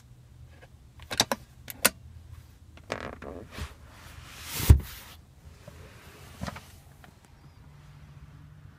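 Plastic clicks and knocks from a car's rear-seat armrest and its pop-out cup holder being handled, with one heavy thud about halfway through, the loudest sound.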